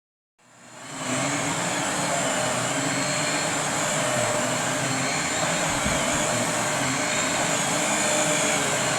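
Riccar 25 series vacuum cleaner running steadily with its brush roller turning, the motor whir coming in about half a second in.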